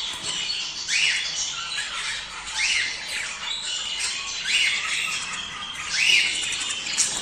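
A flock of budgerigars chattering and warbling continuously. A louder, short rising-and-falling chirp stands out about every one and a half to two seconds. This is breeding-season flock chatter, used to stimulate budgies to mate.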